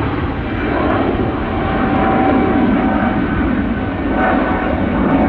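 Jet airliner engines heard close and loud: a steady rushing noise with a faint whine in it.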